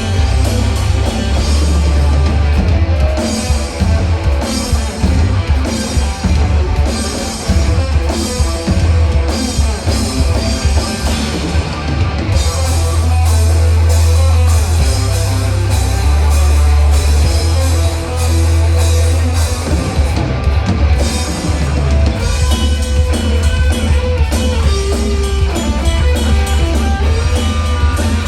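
Live rock band playing loud and steady, with drum kit, electric guitar and a heavy bass low end.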